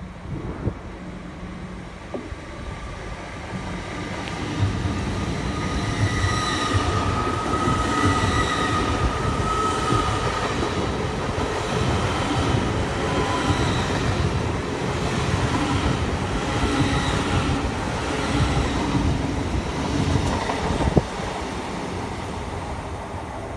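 Great Western Railway Intercity Express Train running along the platform: a loud, steady rumble with regular clacking of the wheels over the rail joints and a high whine. About 21 seconds in it drops suddenly to a quieter rumble.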